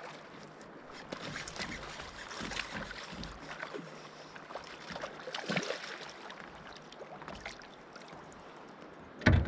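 Scattered small clicks, knocks and scrapes of a kayak and fishing gear being handled while a hooked fish is played, with one loud, deep thump against the kayak near the end.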